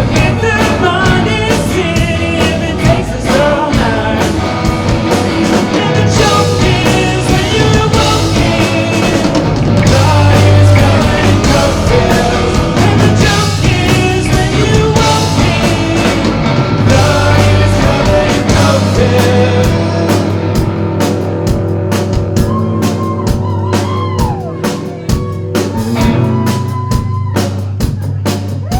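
Live rock band playing a song: drum kit, electric guitar and bass, with a singer.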